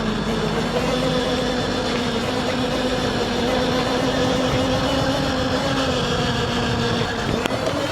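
Electric mini bike's motor whining steadily while riding, over a rushing noise of wind and tyres. The whine rises a little in pitch about a second in and eases near the end.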